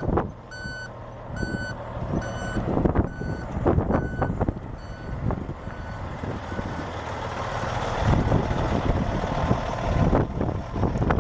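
Dump truck's reversing alarm beeping about once every three quarters of a second, six beeps or so, over the truck's engine running. The beeping stops about four and a half seconds in and the engine gets louder near the end.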